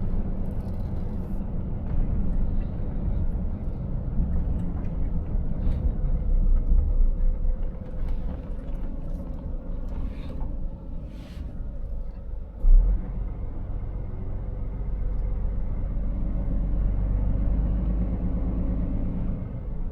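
Scania 500S truck driving: steady low engine and road rumble. There are two brief hisses around the middle, and a single loud thump shortly after.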